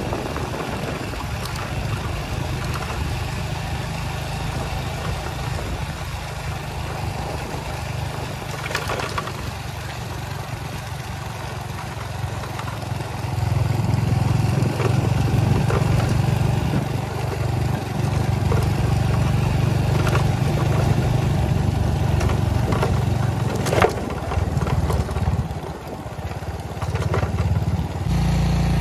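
A vehicle engine running steadily with a low, continuous hum, growing louder about halfway through, with a few scattered clicks.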